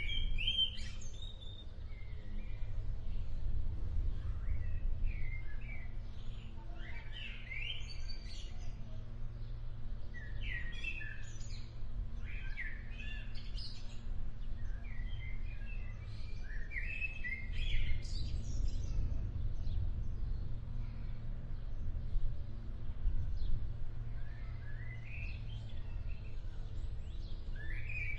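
Songbirds chirping in short, rapid phrases that recur every few seconds, over a steady low rumble.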